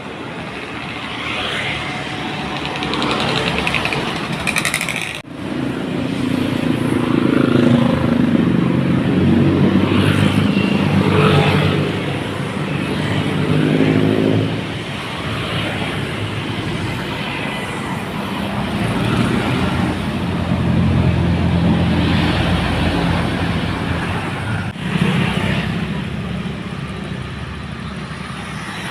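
Diesel engines of heavily loaded dump trucks labouring as they pass, the engine note swelling and fading twice, with two abrupt breaks in the sound.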